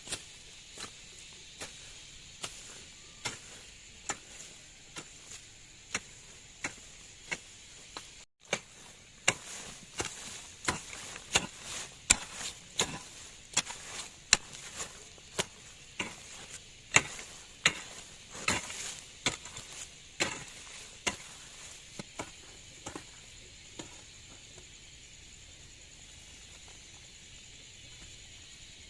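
Repeated chopping strikes, roughly one every three-quarters of a second, coming quicker and louder after several seconds and stopping near the end, over a steady high hiss.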